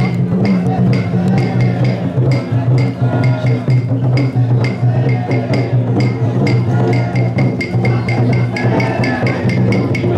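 Festival drumming on a chōsa drum float: a steady beat of about three strokes a second over a continuous low drone, with voices chanting.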